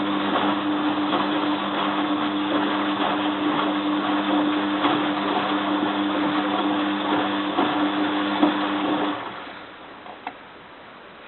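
Bosch WFF2000 washing machine running with a steady, even-pitched motor hum and a rushing noise for about nine seconds, then cutting out.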